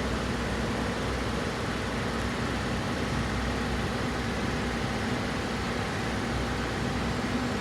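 Steady mechanical drone with a low hum and faint steady tones, from a machine or engine running in the background.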